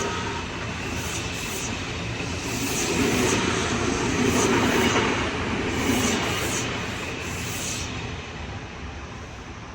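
Electric train running past on the Odakyu Line, its wheels clicking in pairs over the rail joints. The clicking stops about eight seconds in and the rumble fades away.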